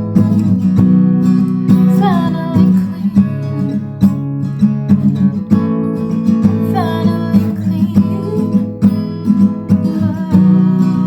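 Acoustic guitar played steadily, chords ringing on, with a short falling tone about two and seven seconds in.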